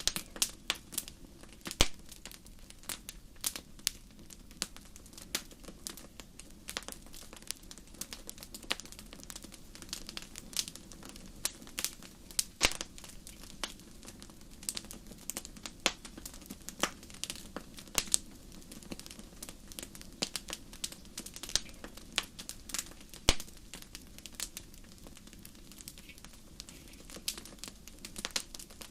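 Wood fire burning in a fireplace: a dense run of irregular crackles and sharp pops over a low steady rumble of the flames.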